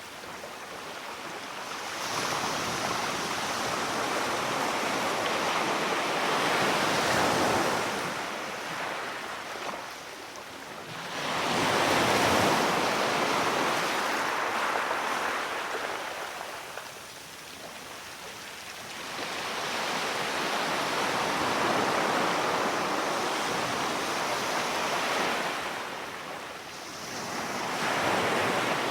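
Sea waves breaking and washing on a shore, swelling and ebbing about every eight to nine seconds, four surges in all.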